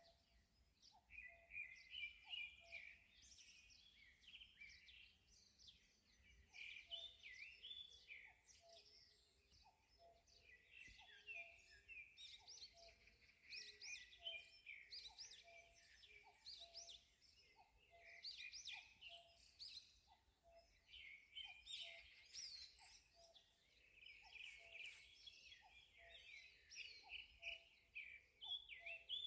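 Several birds singing together in a morning chorus, faint: overlapping quick chirps and trills, with a lower short note repeating about once a second underneath.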